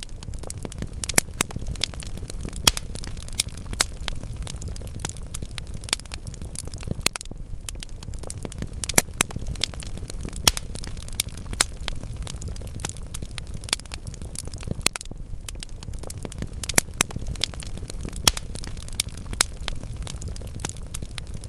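Wood logs burning in a fireplace: steady crackling with frequent sharp, irregular pops over a low rumble of the flames.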